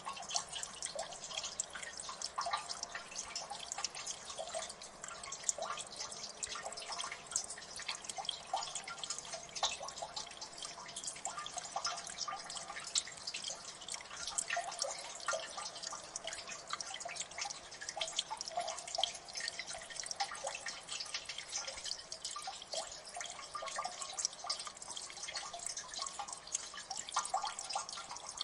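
Water dripping in a gully: many irregular drops falling in quick succession, each a short plink, over a faint wash of running water.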